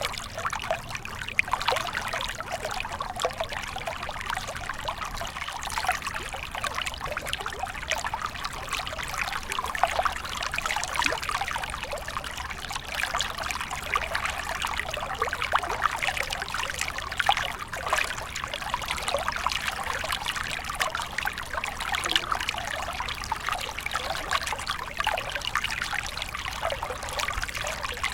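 Small stream running and trickling over stones: a steady babble of splashes and gurgles.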